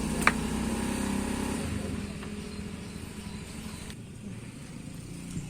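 A low, steady engine hum that eases off after about two seconds, with one sharp click about a quarter second in.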